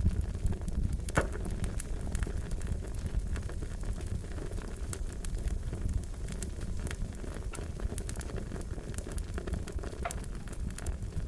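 Wood fire crackling, with a steady low rumble under many irregular sharp pops and snaps.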